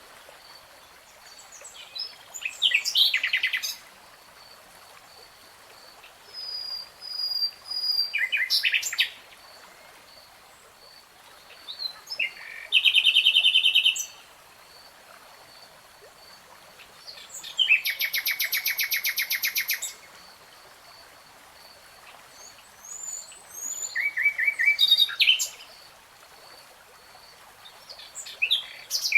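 Nightingale singing in separate loud phrases of whistles and rapid repeated notes, each a second or two long and parted by pauses of a few seconds. The longest is a fast run of repeated notes about two seconds long, midway through. A faint, steady, pulsing high note runs underneath.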